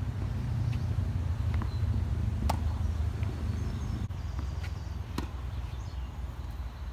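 Tennis balls struck by a racquet strung with Tecnifibre Black Code 1.24 polyester strings at 20 kg: two sharp pops about two and a half seconds apart, with fainter hits and bounces between them, over a steady low rumble.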